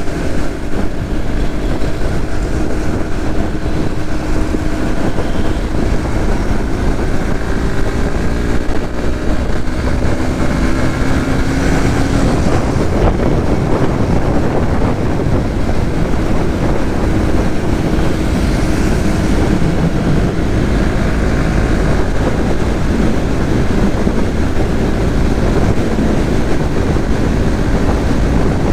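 Suzuki GSX-S150's small single-cylinder four-stroke engine running while riding, its note shifting in pitch with the throttle, under a steady heavy rumble of wind on the microphone.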